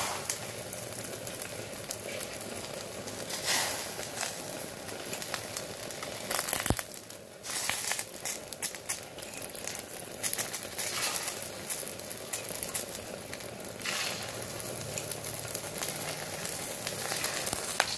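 Eggplant rings sizzling in hot oil in a steel wok, with light clicks of a metal spoon against the pan as filling is spooned into them. The sizzle drops away briefly about seven seconds in.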